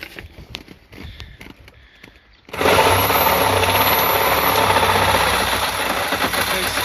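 Light clicks and handling noises, then about two and a half seconds in a power tool starts and runs steadily at full speed cutting metal, a dense noise with a high whine over it.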